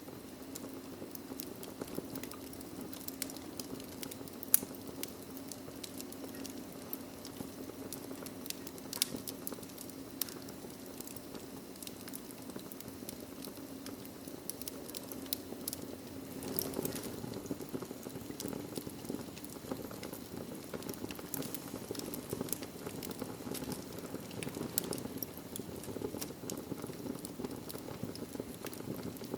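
Wood fire in a fireplace crackling steadily over a low rush of flame, with scattered sharp pops, the loudest about four and a half seconds in.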